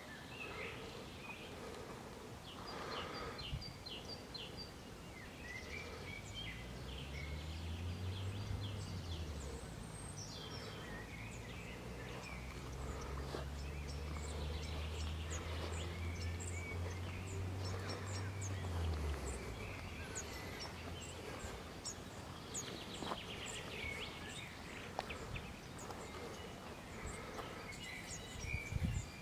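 Birds chirping in short high calls, with a low steady drone, like a distant motor, rising in about six seconds in and fading out around nineteen seconds.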